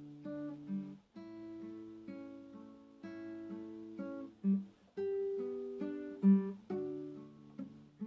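Acoustic guitar playing a slow, gentle piece, single notes and chords plucked about every half second and left to ring.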